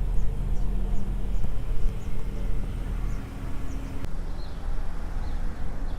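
Street ambience: a vehicle engine running with a steady low rumble, its hum fading about three seconds in, while small birds chirp faintly.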